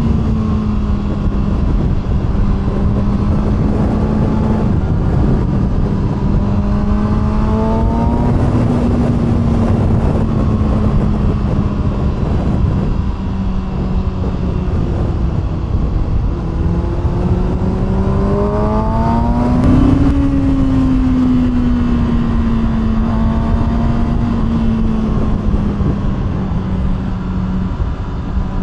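2020 Kawasaki ZX-6R's inline-four engine through an SC Projekt aftermarket exhaust, running at a steady cruising speed with gentle rises and falls in pitch as the throttle is eased on and off, one clearer rise and drop about two-thirds of the way in. A constant rush of wind noise runs beneath it.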